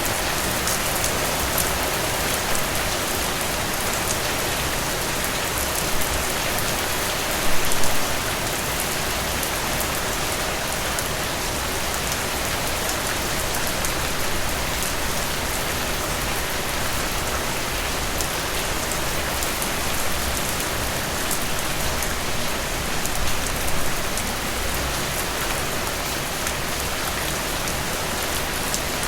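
Heavy rain falling steadily, a dense hiss with scattered individual drops striking, and a few louder drips or splashes about seven to eight seconds in.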